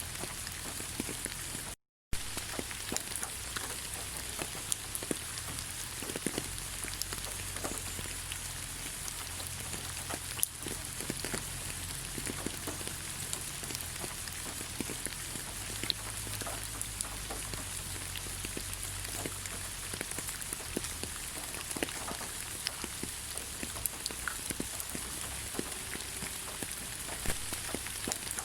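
Rain falling on leaves: a steady patter of many separate drops. The sound cuts out for a moment about two seconds in.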